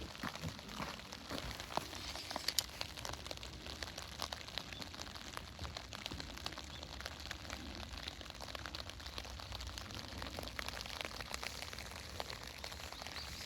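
Wood campfire crackling steadily, with scattered small sharp pops, most of them in the first few seconds.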